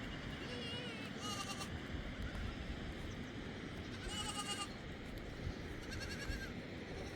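Livestock bleating, three short quavering bleats spread across a few seconds, over a steady background rush of noise.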